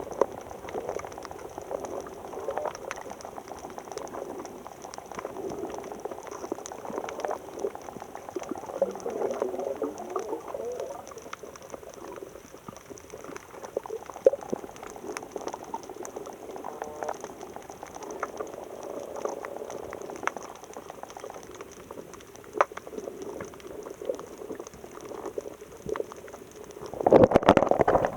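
Water bubbling and gurgling, with many small scattered clicks and a louder rush of water near the end.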